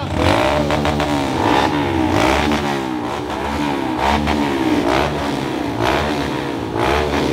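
Dirt bike engine revving, the throttle blipped up and down again and again, the pitch rising and falling roughly once a second.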